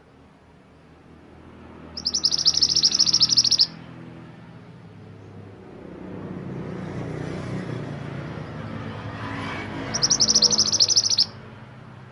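A songbird, the 'mantenan gunung' of Indonesian bird-keepers, gives two fast, high chattering trills of a second or so each, about eight seconds apart. A low rumble runs underneath.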